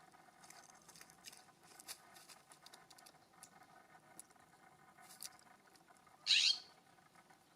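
A single loud, short bird call about six seconds in, sweeping downward in pitch, over faint scattered ticks and taps.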